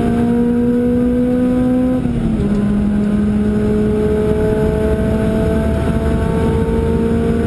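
Car engine heard from inside the cabin, accelerating along a race track: its note climbs slowly, drops at a gear change about two seconds in, then climbs again.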